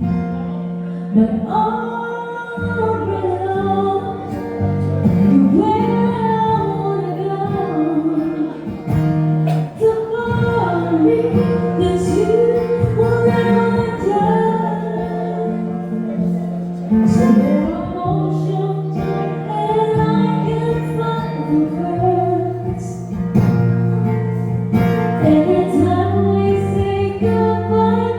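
A woman singing a ballad to acoustic guitar accompaniment, the guitar holding steady chords under her melody.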